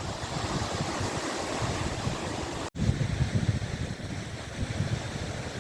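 Waves washing on the Gulf of Finland shore, with wind buffeting the microphone. The sound cuts out for an instant about halfway through, after which the wind rumble is stronger.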